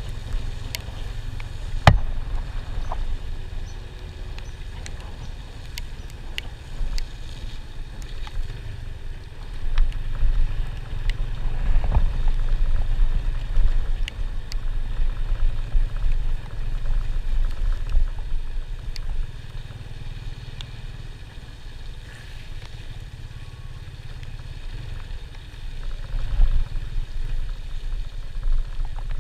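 A motor vehicle on the move: a steady low rumble that swells and eases, with scattered knocks and clicks.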